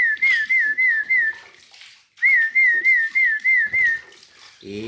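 Whistling in two runs of quick, wavy notes at one pitch, about four notes a second, with a short break between the runs: a call-whistle to a pet jalak.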